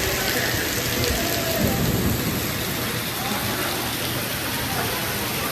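Heavy rain pouring down in a steady hiss during a thunderstorm.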